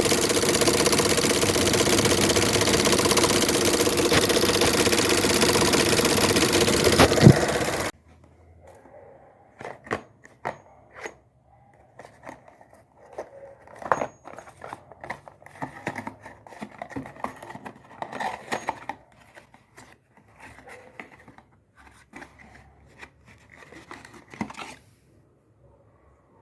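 Chevrolet Onix engine running steadily with the engine noise that is a common defect on this car, a sharp click near the end, then cut off abruptly about eight seconds in. After that come only faint scattered clicks and scraping.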